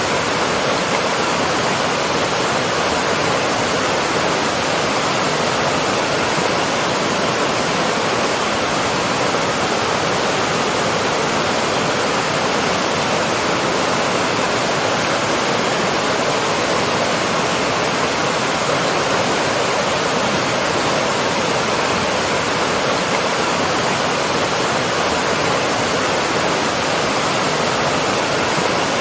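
Waterfall: water falling steadily, a loud, unbroken rushing.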